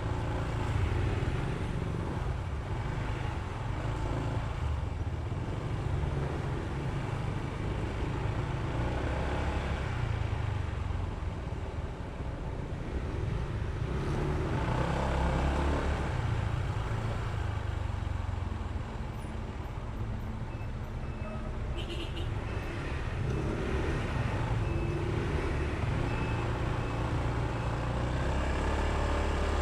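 Honda ADV160 scooter's single-cylinder engine running under way, with road and traffic noise around it; the level rises and falls through the ride.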